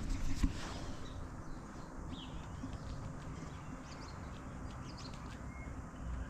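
A few short bird chirps now and then over a steady low hum, with a single knock right at the start.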